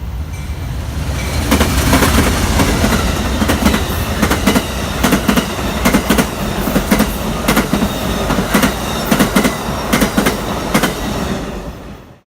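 A train rolling past close by, its wheels clacking rhythmically over rail joints in quick pairs above a steady rumble. The sound builds over the first second or two and cuts off suddenly near the end.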